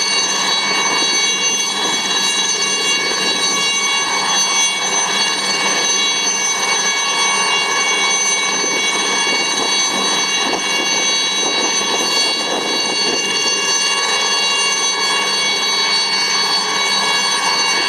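IAR-316B Alouette III helicopter's Turbomeca Artouste turboshaft engine running steadily, with a high turbine whine made of several steady tones over a broad rush of noise.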